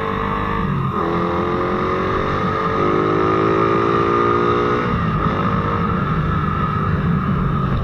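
Motorcycle engine running while being ridden, its pitch shifting slightly up and down with the throttle, over steady road and wind noise.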